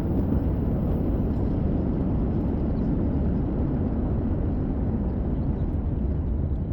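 Vehicle driving down the road: a steady low rumble of engine and road noise.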